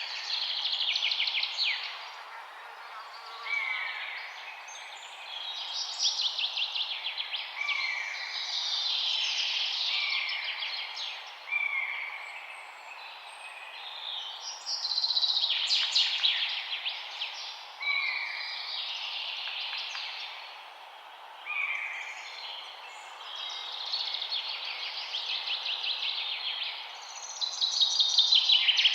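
Songbirds singing: rapid trilled phrases and short chirps come every few seconds over a steady background hiss.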